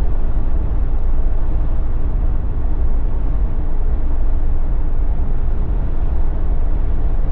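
Steady road, tyre and wind noise of a Jeep driving at highway speed, with a low rumble beneath. A faint click about a second in.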